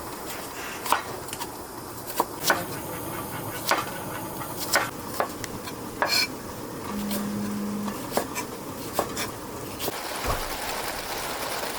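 Knife slicing an onion on a cutting board: irregular sharp knocks of the blade hitting the board, roughly one a second.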